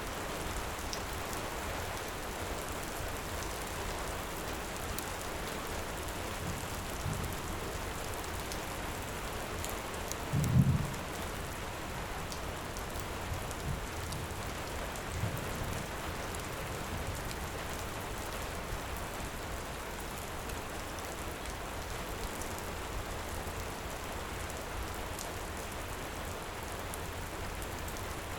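Steady heavy rain, with a few short low thuds, the loudest about ten seconds in, and faint scattered crackles from a fire.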